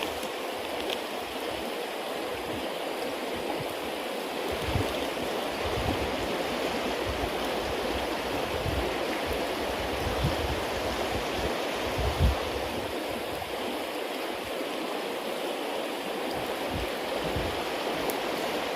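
Bonfire of damp cedar leaves and wet firewood burning with a steady hiss, the sound of wet fuel smouldering and smoking, with a few soft low thumps and faint ticks now and then.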